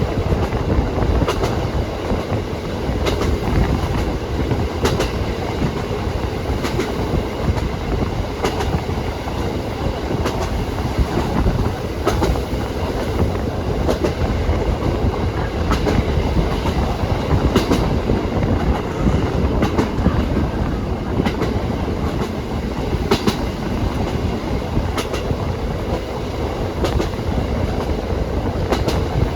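Train running along the track: a steady rumble of the train in motion, with the wheels clicking over rail joints roughly every two seconds.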